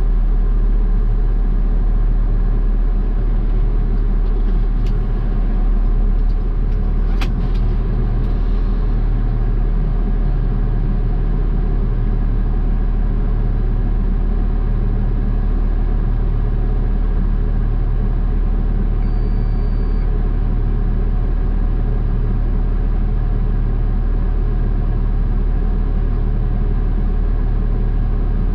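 Garbage truck's diesel engine running steadily, heard from inside the cab, with a couple of short clicks a few seconds in.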